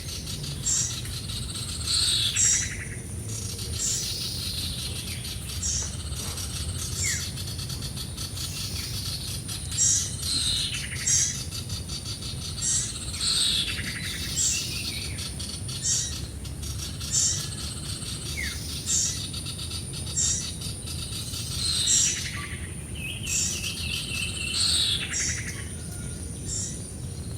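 Small birds chirping over and over: short high chirps come about once a second, with falling, sweeping calls every few seconds. A steady high-pitched tone runs underneath.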